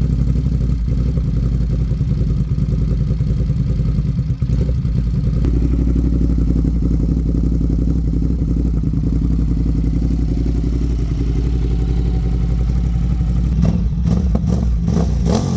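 Ducati SuperSport S L-twin motorcycle engine idling steadily just after being started, with a few quick blips of the throttle near the end.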